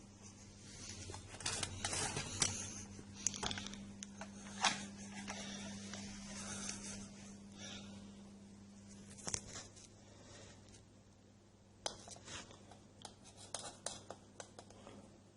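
Rustling, scraping and scattered sharp clicks of objects being handled, over a faint steady low hum.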